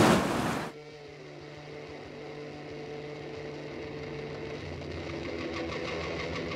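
Rushing whitewater roar that cuts off abruptly under a second in, followed by quiet background music of held low notes fading in, with a light rhythmic beat coming in near the end.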